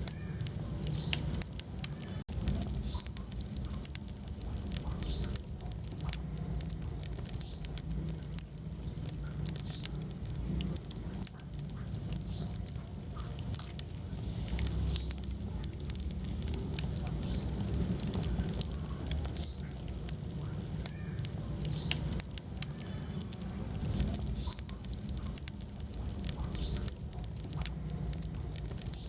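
Wood fire burning in a fireplace, crackling and popping with frequent irregular sharp snaps over a steady low rumble of the flames.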